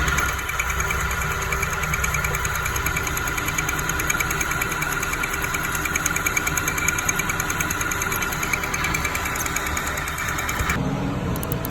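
Metal lathe running steadily, with a fast, even ticking over its whine. Near the end the higher whine stops abruptly while a lower hum carries on.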